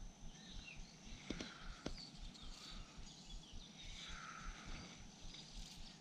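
Faint birdsong of short chirps and calls over a low rumble, with two sharp clicks about a second and a half in.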